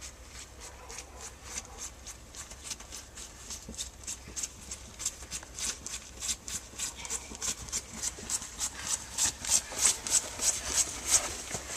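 Footsteps crunching in snow, a steady walking pace of about three to four steps a second, growing louder toward the end.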